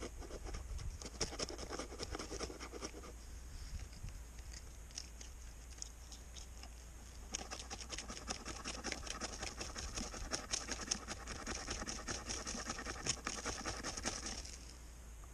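Ferro rod scraped hard with a striker in rapid, repeated strokes. There are two spells: one for the first three seconds or so, and a longer one from about seven seconds in until near the end.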